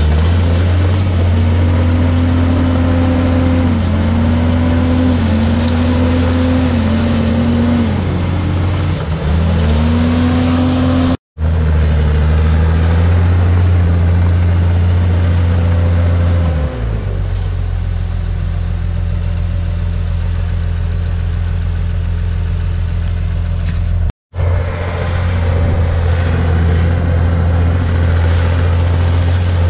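Komatsu D51PX bulldozer's diesel engine running under load, its pitch rising and dipping with the throttle and dropping lower about halfway through. The sound cuts out for an instant twice.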